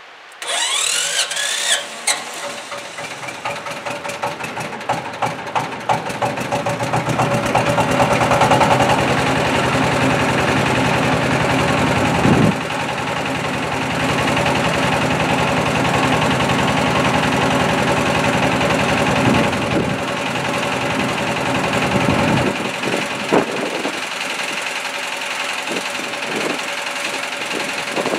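Rock crusher's engine starting: it catches abruptly with a few rising whines, fires unevenly for several seconds, then settles into a steady, loud, rapid-pulsing run.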